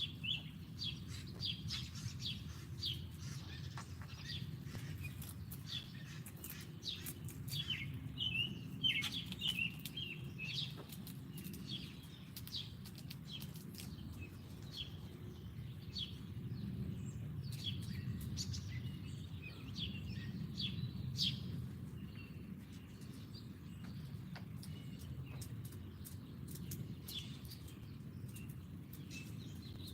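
Small birds chirping: many short, high chirps, thickest in the first half and again a little past the middle, over a steady low background rumble.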